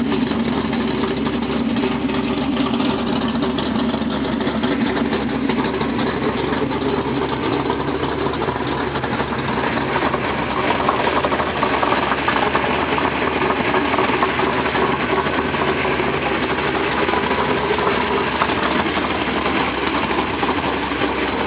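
Plymouth Duster's engine idling steadily, with no revving.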